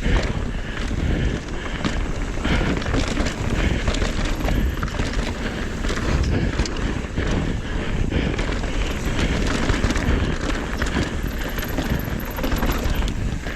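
Mountain bike riding fast down a dirt trail: wind buffeting the microphone, tyres rumbling over the ground and the bike rattling and knocking over bumps.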